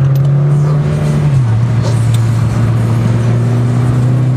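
Mitsubishi Lancer Evolution IX's turbocharged four-cylinder engine heard from inside the cabin, running at a steady note that drops in pitch about a second and a half in, then holds steady again.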